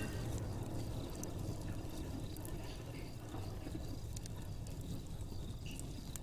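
Fireplace crackling: scattered sharp pops and snaps over a steady low rush.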